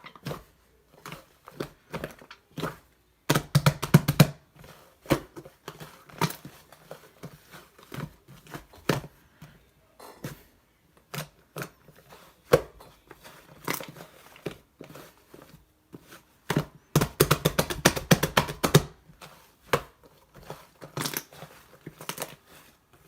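Slime being mixed with shaving foam, making irregular sticky squishes and crackling clicks. Two stretches of fast, dense clicking stand out, one a few seconds in and one about three quarters of the way through.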